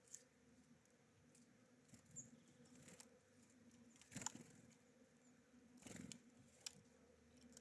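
Near silence with faint scattered taps and clicks of small birds pecking and landing at a seed feeder, and one brief high peep about two seconds in.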